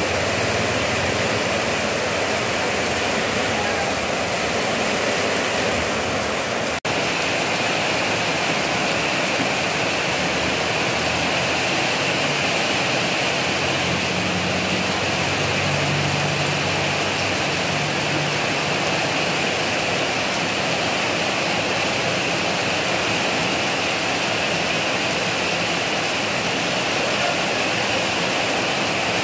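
Heavy rain pouring down steadily, a dense even hiss. A vehicle's engine hums past about halfway through, and the sound drops out for an instant about seven seconds in.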